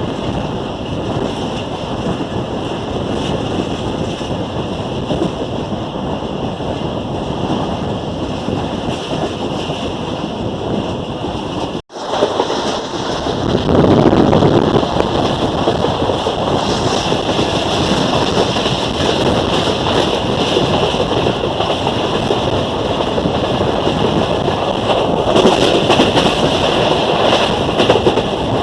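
Passenger train running, heard from on board as a steady rushing rumble with wind buffeting the microphone. The sound cuts out briefly about twelve seconds in and comes back a little louder.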